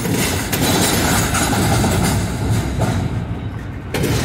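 Double-stack intermodal freight train's well cars rolling past close by: a steady, loud rumble of steel wheels on rail with clickety-clack. The high hiss eases briefly about three seconds in, then comes back.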